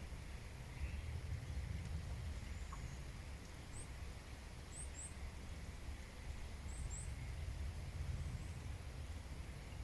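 Faint, very high, brief bird chirps, several in quick pairs, over a steady low outdoor rumble.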